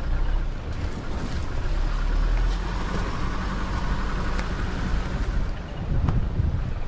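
Car driving slowly along a rough dirt bush track: a steady low rumble of engine and tyres with a few sharp knocks from the bumpy ground.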